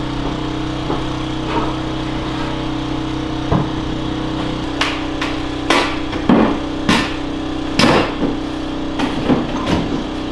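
Hammer knocks on a baseboard being worked loose, a string of irregular strikes that begins about a third of the way in. Underneath is the steady hum of a small engine running.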